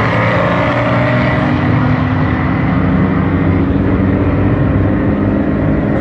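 A car engine running loud and steady throughout.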